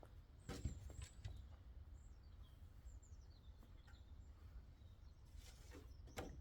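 Two sharp knocks of wood being chopped, the louder about half a second in and another near the end, with faint bird chirps falling in pitch between them.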